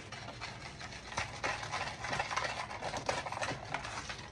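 Stirring sugar, cocoa powder and vanilla extract together in a small bowl: rapid scraping and clicking of the utensil against the bowl, continuous throughout.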